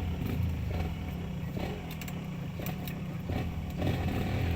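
Motorcycle engine running steadily at low revs, with a few light knocks.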